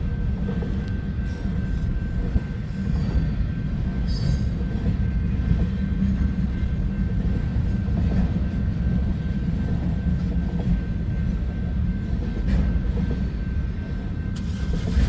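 Freight train cars rolling steadily past on the rails, a continuous low rumble of steel wheels on track.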